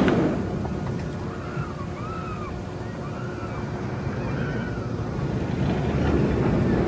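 Steel roller coaster train rumbling away in the distance after passing close by: a steady low roar that fades at first and swells again near the end. Short rising-and-falling tonal calls repeat about once a second over it.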